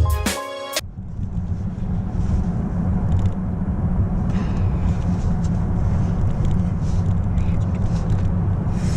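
A car driving, its road and engine noise a steady low rumble, after background music cuts out about a second in.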